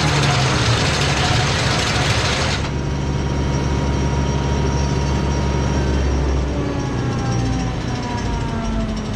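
Eastonmade 48C firewood processor running, its engine droning steadily. A loud rushing noise over the drone cuts off sharply about two and a half seconds in. Faint whines gliding in pitch follow near the end.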